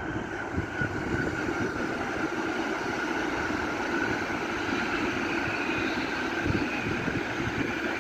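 A train running past: a steady rolling rumble with a faint high whine held throughout.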